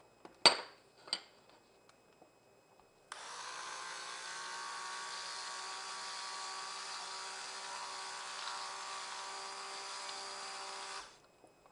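Two sharp knocks about half a second apart, then an old stick (immersion) blender starts about three seconds in and runs steadily for about eight seconds, mixing fragrance oil into cold-process soap batter, before cutting off.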